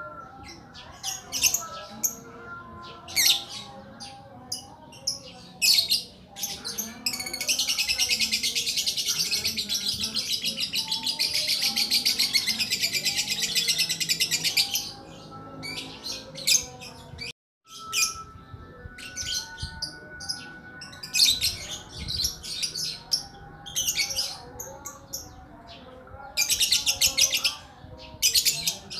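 Lakbet bird calling: a run of sharp, high chirps, then a long rapid trill lasting about eight seconds, and after a brief break near the middle more chirps and another rapid burst near the end.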